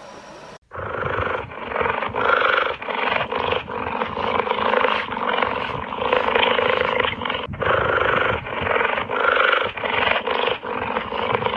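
A large animal vocalizing loudly, with rough, noisy calls broken by frequent short gaps. The calls start suddenly about half a second in.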